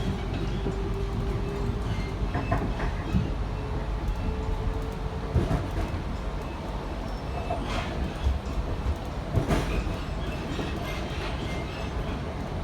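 Sydney Trains electric suburban train running on the rails: a steady low rumble with occasional wheel knocks over rail joints. A humming tone runs alongside and cuts off about five seconds in.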